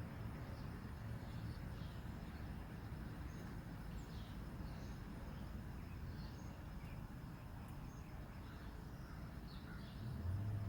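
Faint bird chirps, short downward-sweeping calls, over a steady low rumble of outdoor background noise. A low hum comes in near the end.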